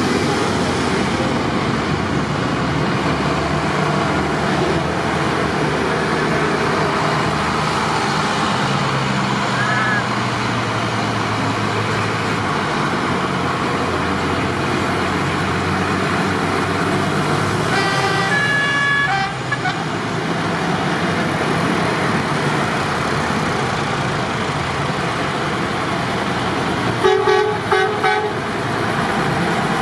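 Tractor engines running steadily, with a vehicle horn tooting about two-thirds of the way through and again in a few short, louder blasts near the end.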